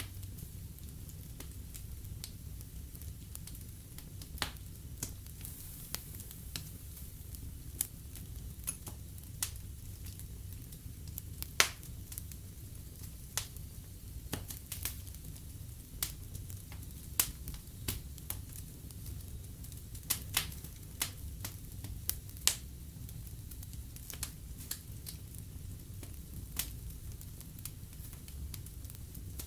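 Wood fire burning in a fireplace: a steady low rumble and hiss with irregular sharp crackles and pops, a few of them much louder than the rest.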